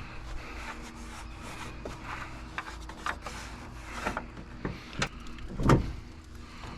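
Handling noise at the truck's hood: rubbing and scraping with a few clicks and knocks, the heaviest about three-quarters of the way through, as the hood is unlatched and raised.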